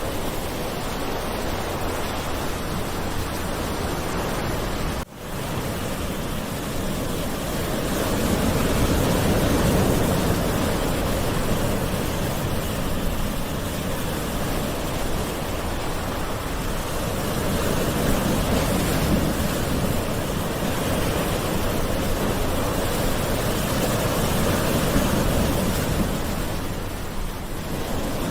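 Gentle ocean waves washing in, a continuous wash of surf that slowly swells and eases every several seconds. A brief sudden gap in the sound about five seconds in.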